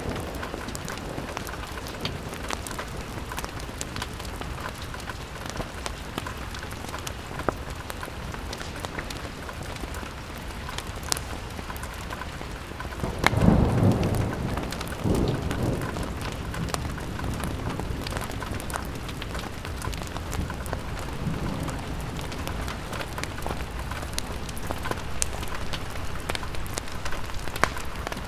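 Steady rain pattering on a window, with scattered small crackles. A low rumble swells up about halfway through and dies away over a few seconds.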